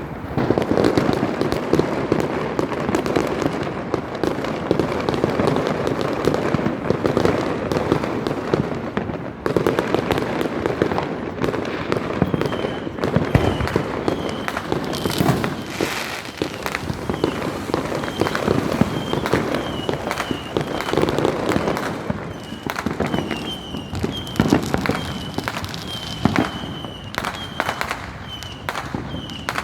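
Fireworks going off in rapid succession: a dense, continuous run of bangs and crackles, with short high chirps repeating through the second half.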